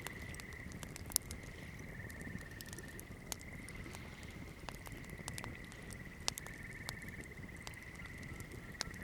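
Wood campfire burning, crackling with scattered sharp pops over a low rumble of the flames, a few louder snaps among them. A steady high trill runs continuously behind the fire.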